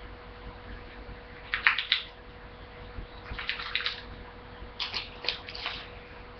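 A budgie biting and tearing a piece of paper with its beak: three short bursts of crisp crackling, about a second and a half apart, over a faint steady hum.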